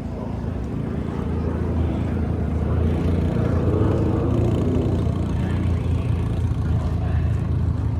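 Car engine running at low revs, a steady low drone that grows a little louder about two seconds in.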